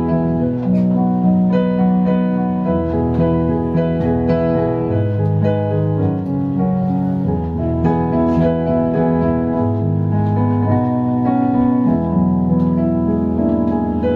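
Keyboard playing sustained chords in an instrumental passage of a slow song, with no singing.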